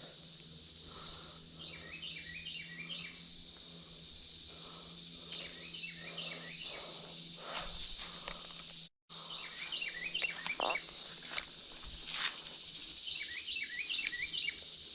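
Steady chorus of insects, with a bird singing short series of falling chirps every few seconds. The sound cuts out for a moment about nine seconds in.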